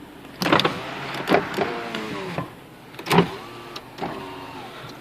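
Power window motors of a 2007 Subaru Impreza running, two runs of motor whine, each about a second long, with sharp clicks and thumps from the switches and glass around them.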